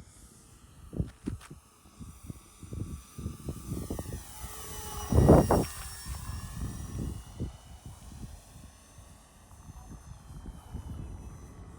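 Electric motors and propellers of an E-flite Twin Otter RC model plane whining in flight, the whine sinking in pitch and then climbing again. Low gusts of wind buffet the microphone throughout, strongest about five seconds in.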